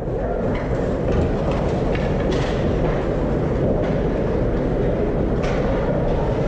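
Steady low rumble of ice-arena noise during a hockey game, with a couple of brief higher scrapes about two and a half seconds in and near the end.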